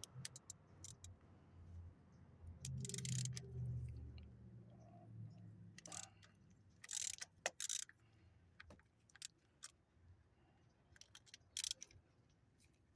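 Scattered metallic clicks and ticks of a 10 mm socket wrench working the bolt that holds the ignition coil pack, with a brief low rumble about three seconds in.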